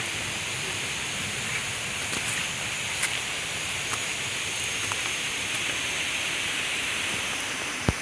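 Steady rushing hiss of water, with a few faint sharp ticks and a louder click near the end.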